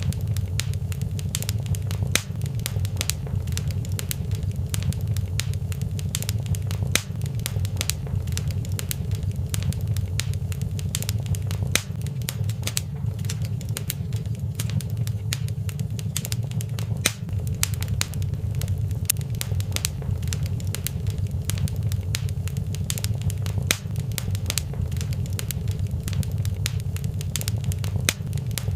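Fireplace fire crackling, with frequent sharp snaps and pops over a steady low rumble.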